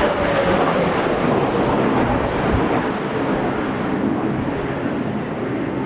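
Jet roar of a Blue Impulse Kawasaki T-4 trainer passing and moving away, slowly fading, with gusty wind rumbling on the microphone.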